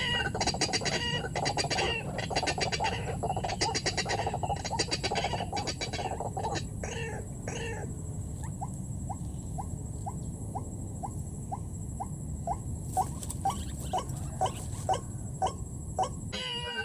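White-breasted waterhen calling: a harsh, rapidly pulsed croaking chorus for the first six seconds or so, then a steady series of short rising notes, about two a second, over a low steady rumble.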